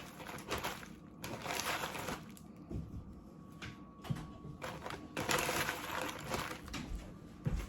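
Faint rustling and small knocks of hands handling raw chicken breasts and toothpicks on a counter, in two bursts with a quieter gap between them.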